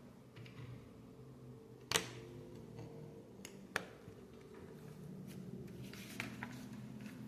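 Plastic Lego bricks clicking as they are handled and pressed together: a sharp click about two seconds in, another a couple of seconds later and a quick run of small clicks near the end, over a faint steady hum.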